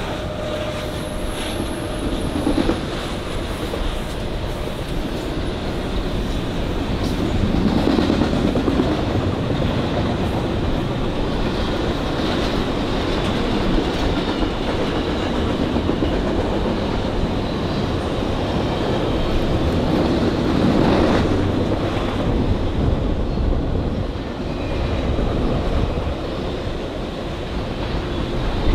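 Railroad cars rolling past at close range: continuous wheel-on-rail noise with the clickety-clack of wheels passing over rail joints. It swells louder a couple of times as it goes by.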